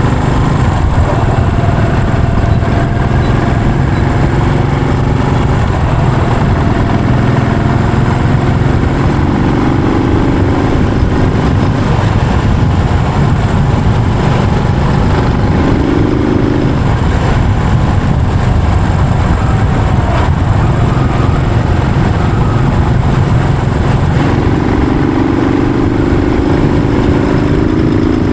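Yamaha SR400's air-cooled single-cylinder four-stroke engine running loud and steady while riding, its note rising and falling a few times with the throttle.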